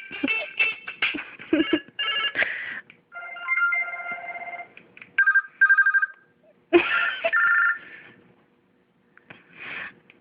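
Short snatches of different phone ringtones played one after another, each a bright electronic tune or ring cut off after a second or so before the next starts. There is a brief silent gap near the end.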